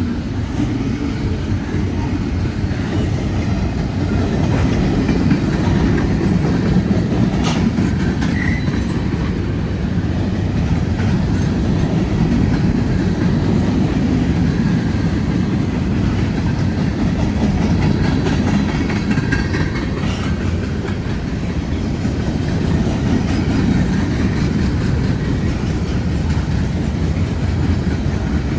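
Freight train rolling past: a steady, deep rumble of railcars on the rails.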